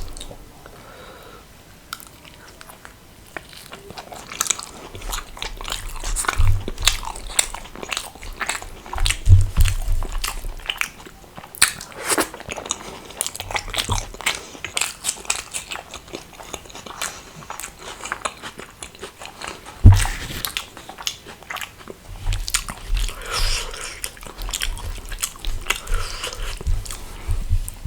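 A person eating close to the microphone: wet chewing with many short crunchy bites. One louder thump comes about two-thirds of the way through.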